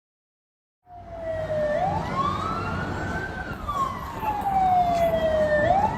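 Emergency vehicle siren wailing. It starts abruptly about a second in, glides slowly up and back down in pitch, and begins to rise again near the end, over a low rumble underneath.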